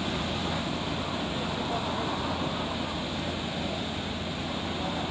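Steady running noise of a parked airliner on the apron, an even rumble and hiss.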